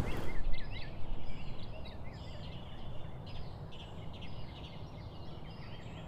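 Birds calling: a quick run of short, high chirps and hooked notes repeating over and over, busiest and loudest in the first second or so, then steadier and softer.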